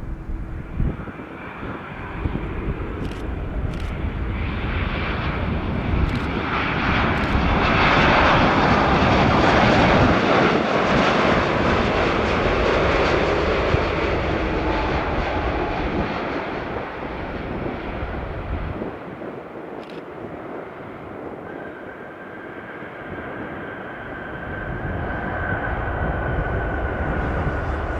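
Jet airliner passing by, its engine noise swelling to a peak about eight to ten seconds in, with a whine dropping in pitch as it goes past, then fading. Near the end a steady high whine rises again.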